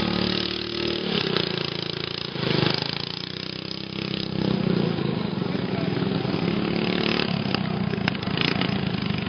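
Racing lawn mower engines running, their pitch shifting up and down as they rev.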